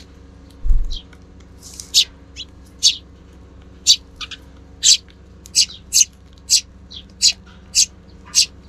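Eurasian tree sparrows chirping, fledglings among them: short, high chirps repeated every half second to a second, coming faster in the second half. A brief low thump comes about a second in.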